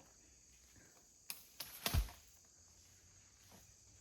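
A few faint clicks followed by a louder knock with a dull thud about two seconds in.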